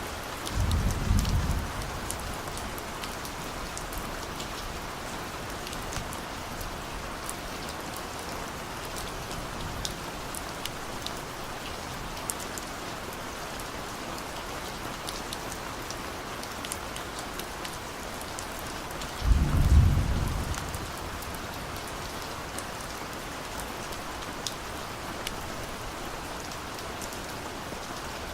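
Steady rain falling, with individual drops heard as small scattered clicks. Two short low rumbles of distant thunder, one about a second in and one about two-thirds of the way through, stand out as the loudest sounds.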